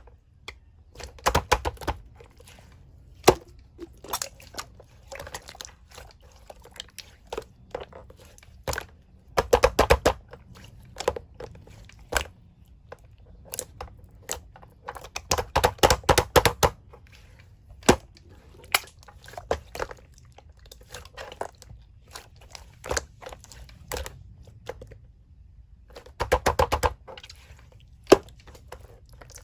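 Slime being squished, pressed and stretched by hand, making wet clicking and popping sounds as air pockets burst. The clicks come in several denser bursts of rapid crackling, about four of them, between sparser single pops.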